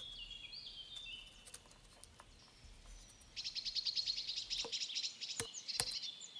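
Woodland songbirds singing with high chirps and short phrases, then a fast trill from about halfway through. Near the end come three sharp taps: a great spotted woodpecker pecking into lime tree bark to tap the sap.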